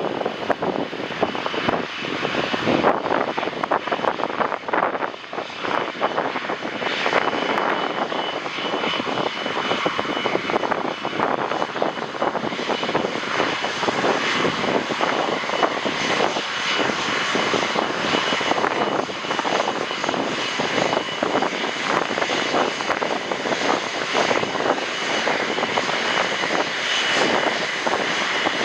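Jet airliner engines, getting louder over the first several seconds and then holding steady, with a faint steady high whine. Wind gusts buffet the microphone throughout.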